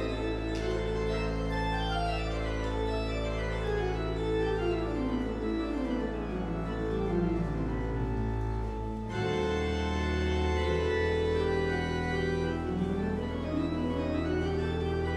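Church organ playing a postlude: held low pedal notes under running passages that climb and fall, with a short break about nine seconds in before a new chord on a deeper bass note.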